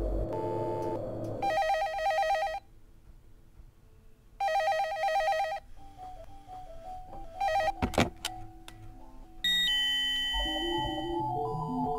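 Desk telephone ringing twice, each ring a rapid trill about a second long, with a pause of just under two seconds between them. Near the end, music comes in.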